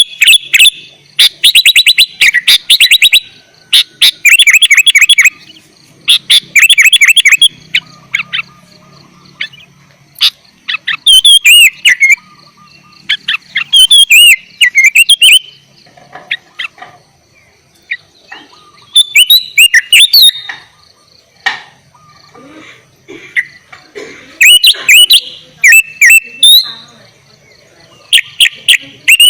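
Sooty-headed bulbul (kutilang) singing in full voice: loud bursts of fast chattering and whistled notes, one to two seconds each, with short pauses between them. A faint steady high whine runs underneath.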